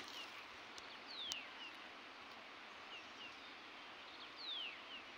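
Faint outdoor ambience in which a bird gives two descending whistled calls, one about a second in and another about four and a half seconds in, along with a few short high chirps.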